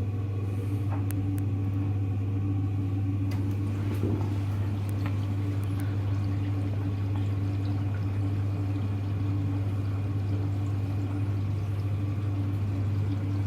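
Hoover Electra front-loading washing machine filling with cold water at the start of its permanent press cycle: a steady low hum with water running into the drum.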